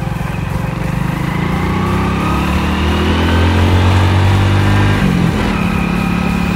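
Hero Splendor's single-cylinder motorcycle engine pulling under way, its pitch climbing steadily for about five seconds, then dropping suddenly and running on at a steady pitch.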